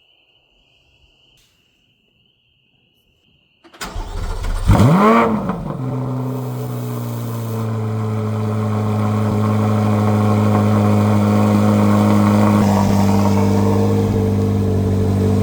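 2024 Corvette Z06's LT6 flat-plane-crank V8 cold-starting through its factory exhaust. About four seconds in it fires, flares up in revs and drops back, then settles into a steady, loud high cold idle.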